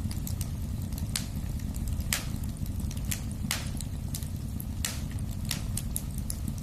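Wood fire in a fireplace crackling, with sharp pops about once a second over a steady low rumble of the flames.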